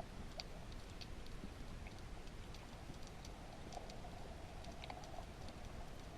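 Underwater ambience: a faint, steady rushing hiss with scattered short clicks and crackles.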